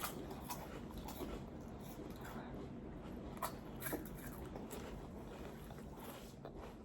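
Faint crunching and chewing of green tea wafer cookies, with a few scattered soft crackles.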